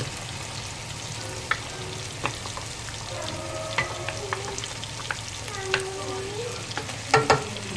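Onions, tomatoes and spices frying in a pan, with a steady sizzle as marinated chicken pieces go in and are stirred. A utensil scrapes and clicks against the pan throughout, with two louder knocks near the end.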